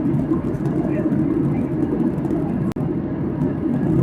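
Steady cabin drone of a Boeing 737-800 in flight, engine and airflow noise heard from a window seat, broken once by a brief dropout about two-thirds through.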